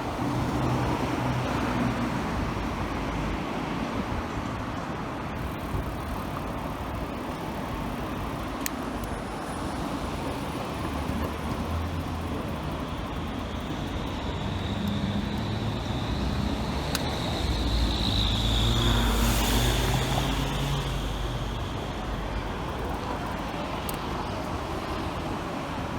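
City street traffic: a steady wash of passing cars, with a high whine building from about fourteen seconds in and a louder low rumble around eighteen to twenty seconds as something bigger goes by.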